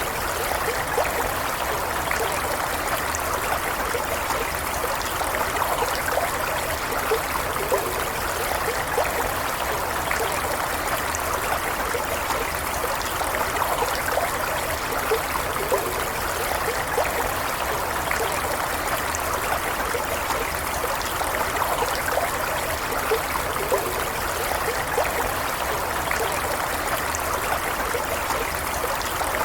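A stream of running water flowing steadily: an even rush with many small gurgles and trickles, unchanging throughout.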